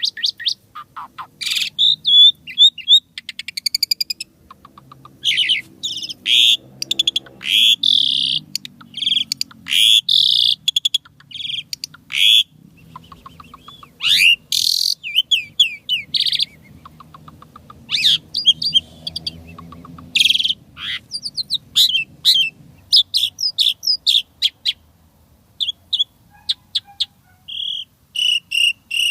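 Asian pied starling (jalak suren) singing a long, varied song of rapid clicking rattles, short whistles and fast chattering phrases with brief pauses between them, full of imitated sounds.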